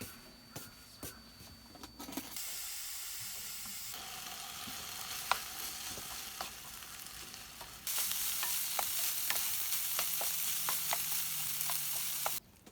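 Food frying in a hot pan: a steady sizzle with scattered sharp pops and crackles. It starts about two seconds in after a few light clicks, gets louder about eight seconds in, and stops abruptly just before the end.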